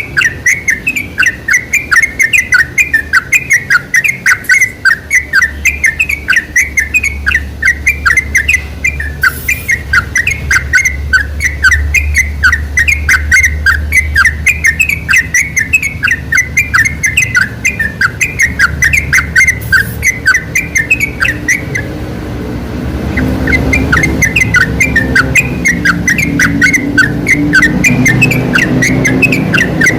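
Trucuk (yellow-vented bulbul) singing: a rapid, unbroken run of short whistled chirps, about four to five a second, with a brief pause about two-thirds of the way through.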